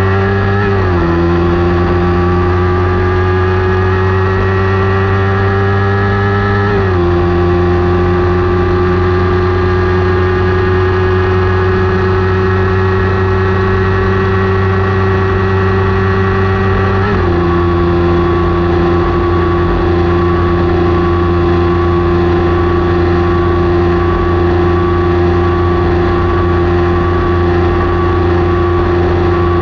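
Kawasaki Ninja 400's parallel-twin engine at high revs under race load. Its note climbs slowly and drops sharply at upshifts about a second in, about seven seconds in and about seventeen seconds in, then runs nearly steady.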